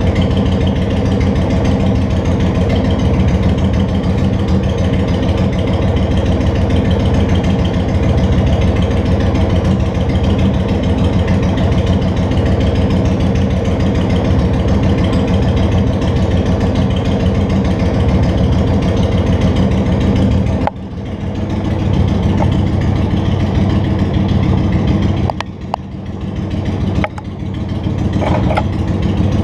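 Honda Shadow Spirit 750's V-twin engine running steadily. Its sound drops suddenly about two-thirds of the way through, then builds back up, with two more short dips near the end.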